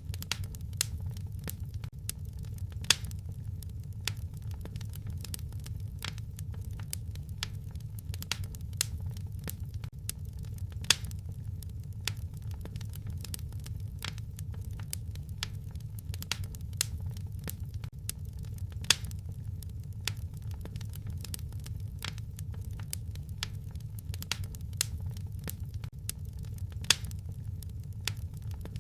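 Wood fire in a fireplace crackling: a steady low background of flames, scattered small crackles, and four louder sharp pops spaced about eight seconds apart.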